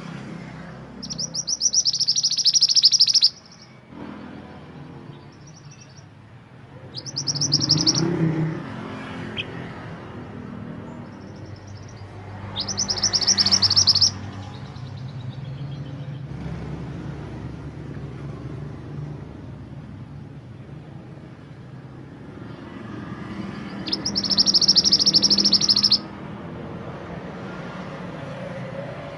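Mantenan gunung bird singing four bursts of fast, high trilling song, each about two seconds long, over a steady low background rumble.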